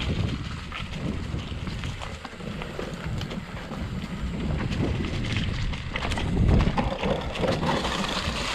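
Wind buffeting the microphone over the rumble of a mountain bike's tyres on a dirt trail, with many small rattles and knocks from the bike.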